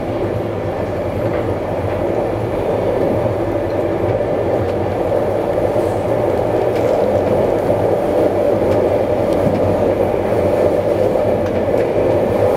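Running noise of a passenger coach at speed, heard from inside a second-class compartment of a type 136A carriage: a steady rumble of wheels on rail that grows a little louder.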